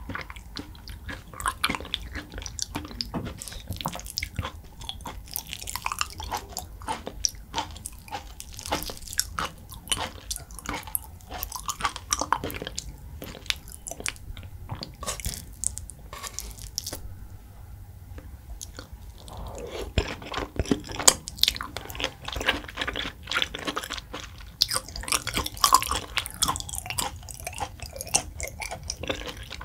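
Close-miked wet chewing of raw beef (yukhoe), a dense run of sticky mouth smacks and clicks, easing off for a few seconds about seventeen seconds in and then picking up again, louder.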